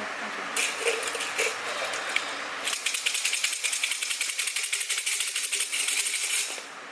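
Bamboo fortune sticks (siam si) rattling in their cylinder as it is shaken: a few short shakes, then a fast, continuous clatter of clicks from about three seconds in that stops shortly before the end.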